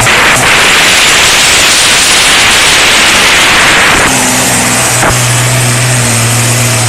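Pulling tractor's engine running very loud under full power, a dense roar that gives way about four seconds in to a steadier, lower engine note.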